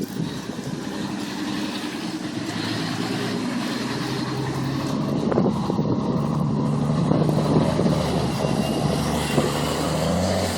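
International dump truck's engine running under load as the truck turns donuts in snow, its pitch climbing slowly as it revs higher in the second half.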